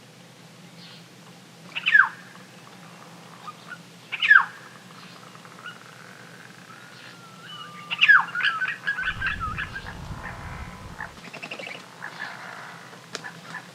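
Bird calling: three loud, sharp notes that each fall steeply in pitch, about two seconds apart, the third running straight into a quick chattering series.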